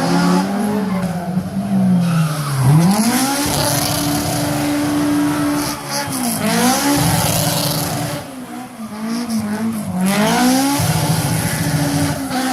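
Datsun 1200 rally car's Honda F20C 2.0-litre four-cylinder engine revving hard: the pitch climbs and holds high, then drops sharply and climbs again about three times as the car lifts, shifts and accelerates.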